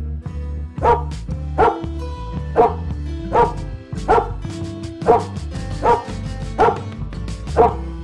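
Doberman barking: about nine single barks at an even pace, a little more than one a second, over guitar background music.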